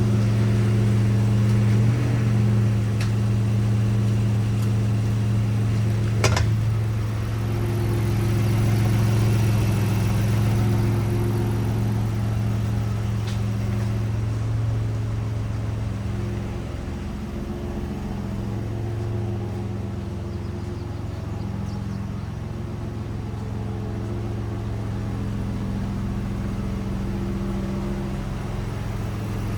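The 3.5-litre V6 of a 2010 Lincoln MKX running steadily at idle, with one sharp click about six seconds in.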